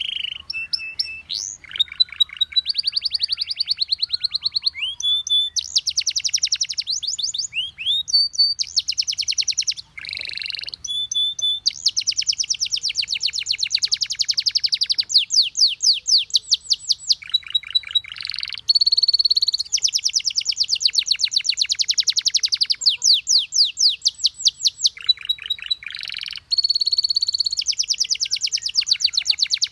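Canary singing a long, continuous song: rolling trills of fast repeated notes that change speed every second or two, broken by short clear whistled notes.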